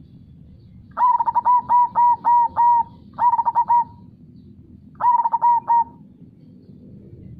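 A zebra dove (perkutut) cooing its song in three phrases: a quick run of about seven coos, then a short group, and after a pause another short group. Under it is a low steady rush of flowing river water.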